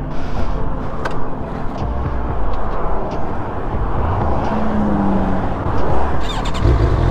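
Motorcycle engines running at the roadside amid highway traffic noise, with a stronger, deeper engine note coming in near the end.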